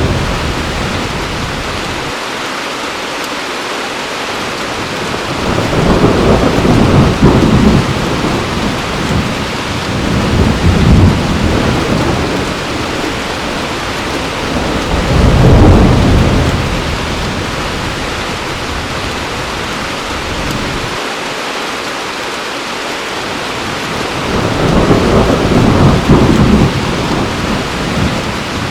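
Heavy rain falling steadily, with four low rumbles of thunder that swell and fade over it, each lasting a couple of seconds.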